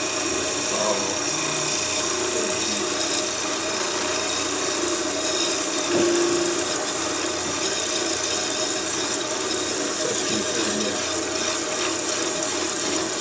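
Wood lathe running steadily while a cutting tool scrapes into the spinning wood, parting off the ornament.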